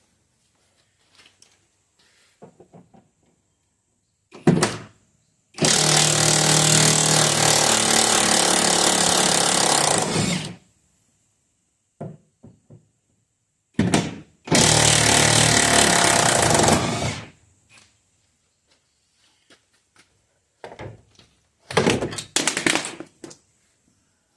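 Impact wrench running in two long bursts, about five seconds and then two and a half seconds, with a steady hammering buzz as it spins out the 18 mm seat bolts of a Jeep Wrangler. Short clanks of the tool and seat hardware fall between and after the bursts.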